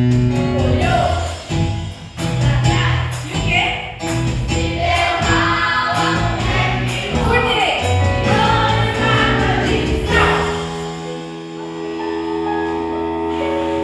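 Gospel song with several voices singing over an instrumental backing with a regular beat. About ten seconds in, the singing and the beat drop away, leaving held chords.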